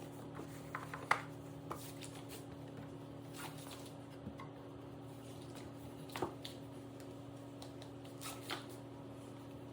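Scattered light clicks and taps from items and fridge parts being handled during cleaning, over a steady low hum.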